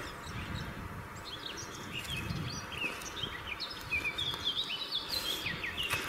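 Woodland birds singing: a quick run of short, high chirping notes that starts about a second and a half in and runs on, over a low uneven rumble.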